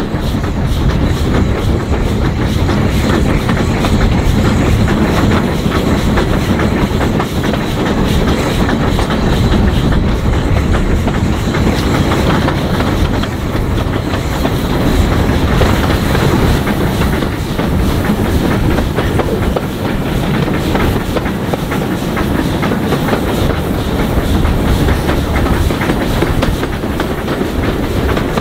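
Railway train running at steady speed: a continuous low rumble with the clickety-clack of carriage wheels over rail joints.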